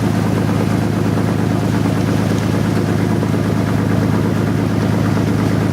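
A boat's inboard engine running at a steady speed, a loud, even low drone with a constant beat, as the boat sets out from the harbour.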